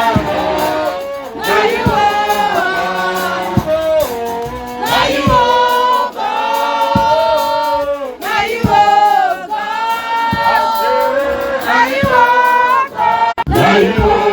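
Worship singing by a group of voices, holding long notes, over band accompaniment with a steady beat.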